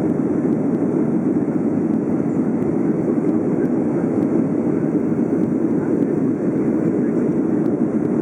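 Boeing 757-200 jet noise during takeoff: a steady, even low rush with no change in pitch or level.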